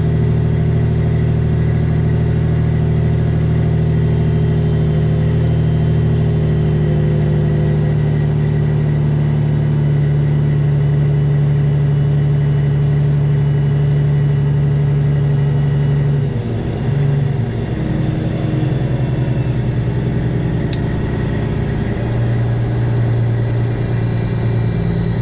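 Detroit Diesel 12.7 diesel engine of a straight-piped Freightliner Classic XL semi truck running at low speed, its steady note changing pitch about two-thirds of the way through as the throttle comes off, then settling again. A single sharp click near the end.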